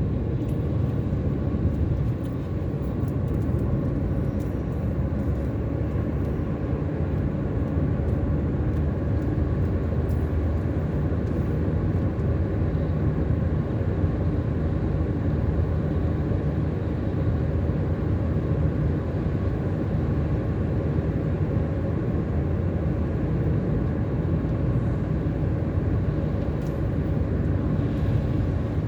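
A car driving at a steady pace: engine and road noise make an even rumble with no marked changes.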